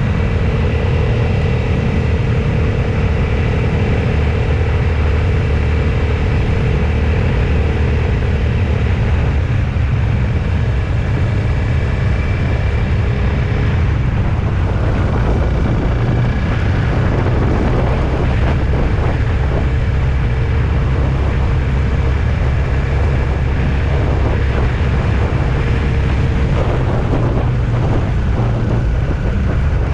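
A road vehicle travelling steadily: a continuous low engine and road rumble with a faint steady hum over it.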